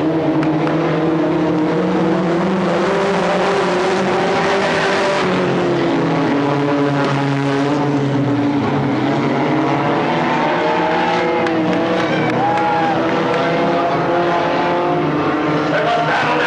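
Several stock car engines running together in a race, their pitches rising and falling as the cars lap the track.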